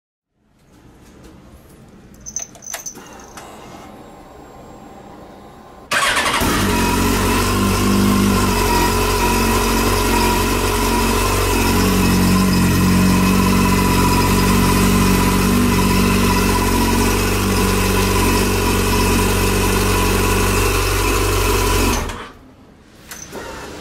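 Yamaha FZ1's inline-four engine starting about six seconds in, idling steadily for about sixteen seconds, then switched off abruptly; a few faint clicks come before it starts.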